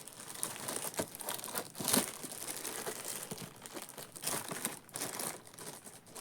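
Packaging crinkling as it is handled, in irregular bursts with a few sharper clicks.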